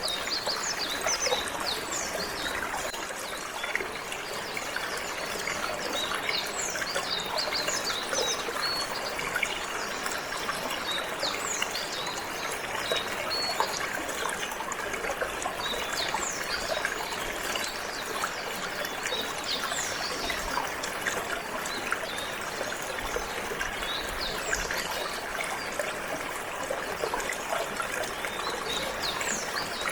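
Steady trickling, flowing water, with many short, quick high chirps of singing canaries scattered over it.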